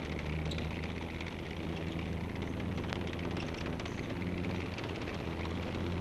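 Tank engine running steadily as a low hum, heard through the hiss and crackle of an old film soundtrack.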